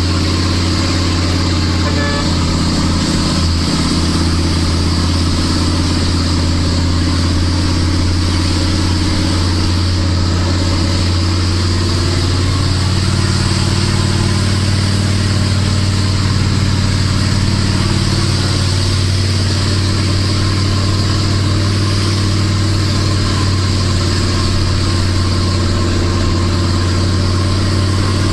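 Nissan Diesel Big Thumb's RH10 V10 diesel engine pulling steadily uphill under a 25-tonne load, its note shifting slightly about halfway through.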